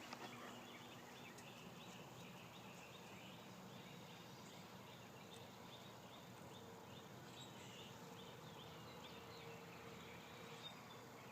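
Near silence: faint outdoor ambience with soft, high chirps repeating steadily in the background.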